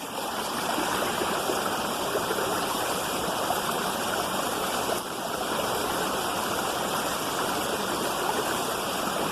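Waterfall water falling and rushing over rocks, a steady wash of noise with a brief dip about five seconds in.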